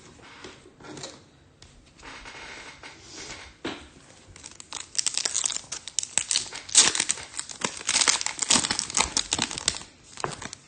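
A trading-card pack wrapper being torn open and crinkled, a light rustle at first, then dense crackling from about halfway through.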